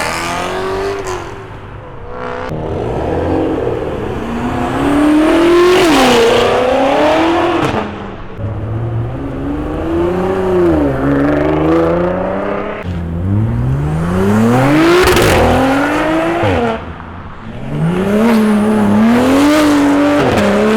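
A loud car engine revving hard, its pitch climbing and dropping back about four times.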